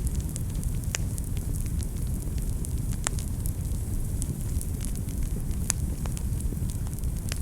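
Wood fire in a fireplace crackling: a steady low rumble of flames with many small ticks, and sharper pops about a second in, about three seconds in and near six seconds.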